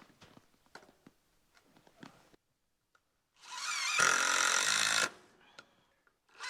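A few light knocks and clicks of handling, then about three and a half seconds in a power drill spins up with a rising whine and runs steadily for under two seconds before stopping.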